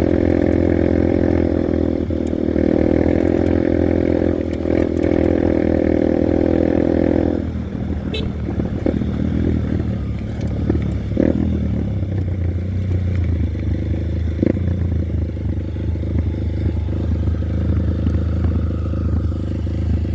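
Honda Bros 150 single-cylinder motorcycle engine running steadily under throttle, then easing off about seven seconds in to a lower, quieter running, with a few knocks and clatters after that.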